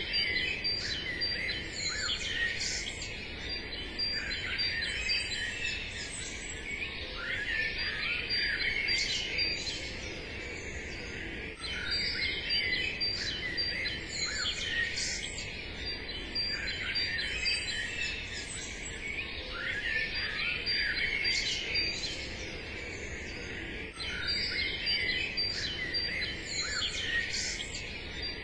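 A chorus of small songbirds chirping and singing over one another, steady throughout with many short overlapping calls and trills.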